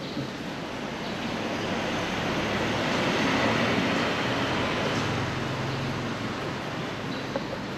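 A motor vehicle passing by: a rushing engine-and-tyre noise with a low hum that swells to a peak about three to four seconds in, then fades away.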